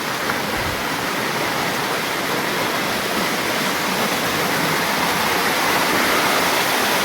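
Rainwater pouring and rushing steadily in a heavy downpour, as runoff streams off a flat roof and floods out of a courtyard.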